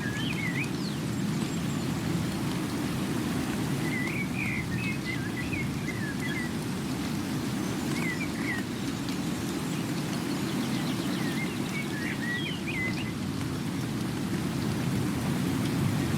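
A steady low rushing rumble of outdoor ambience, with a bird singing short chirping phrases every few seconds over it.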